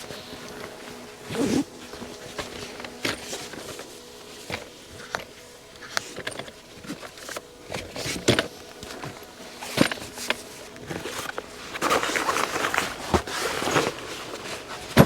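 Scattered knocks and clicks with rustling and footsteps, as of gear being handled, with a longer stretch of louder rustling about twelve seconds in.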